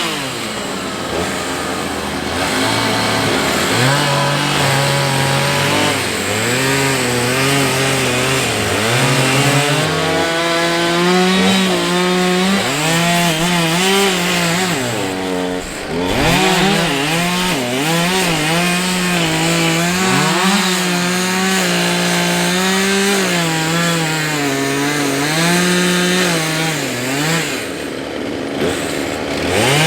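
Two-stroke chainsaw cutting through logs, its engine pitch rising and dropping again and again as it revs and bogs in the wood, with a brief let-off about halfway through and another near the end.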